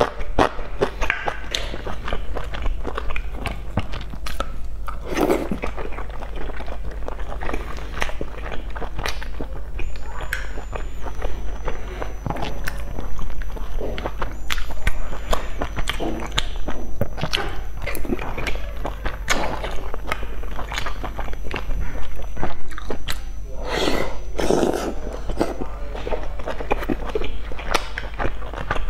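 Mouth sounds of someone eating boiled dumplings: wet, irregular chewing and smacking with many short clicks, and a few louder bursts.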